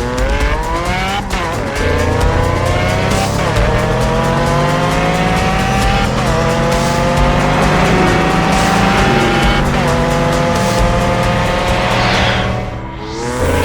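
Car engine sound effect revving up and shifting through the gears again and again, each rising whine dropping suddenly at a shift, over background music. Near the end the engine fades briefly and then comes back in with a whoosh.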